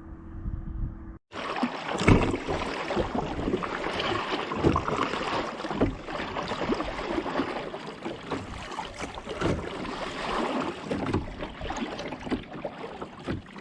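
Kayak paddling: the paddle blades dip and splash in the lake water with irregular strokes and drips, and water laps against the hull. The sound starts abruptly about a second in.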